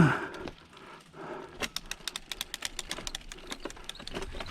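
Mountain bike rear freehub clicking rapidly, about ten sharp ticks a second, as the bike rolls off while coasting. A brief loud sound at the very start.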